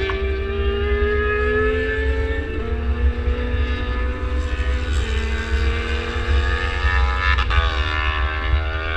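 Motorcycle engine pulling hard on track, its pitch climbing slowly and dropping sharply at each upshift, three shifts a couple of seconds apart, with heavy wind rumble on the onboard microphone.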